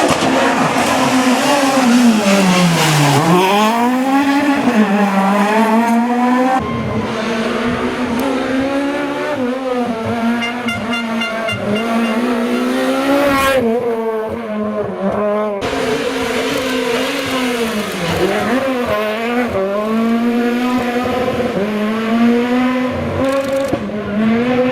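Super 1600 rally car engines, high-revving 1.6-litre four-cylinders, driven hard: the pitch climbs and drops again and again as the drivers accelerate, shift and lift off. The sound changes abruptly a few times as one car gives way to another.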